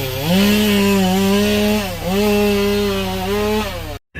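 An engine held at high revs with a steady whine. Its pitch dips briefly twice and recovers, then it stops abruptly near the end.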